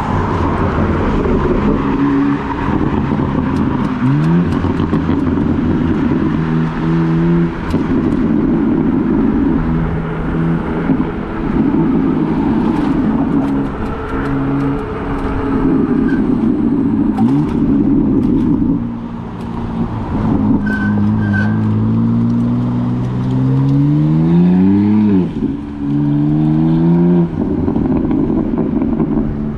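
Fat-tire e-bike's electric drive motor whining as it rides, its pitch stepping and gliding with speed: a long rising whine from about two-thirds of the way through, which drops away suddenly, over steady wind and tyre noise.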